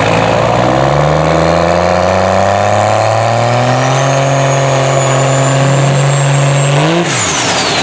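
Turbo-diesel pickup truck accelerating at full throttle: the engine note climbs steadily alongside a rising high turbo whistle. About seven seconds in, the engine note drops abruptly and the turbo whistle winds down as the truck lets off.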